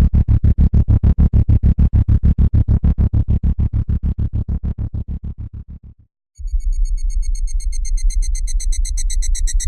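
Electronic chopping sound effects. A fast, evenly pulsed low synthesized throb, about eight beats a second, fades out about six seconds in. After a brief gap a second chopping effect starts: a low hum under rapid stuttering high tones.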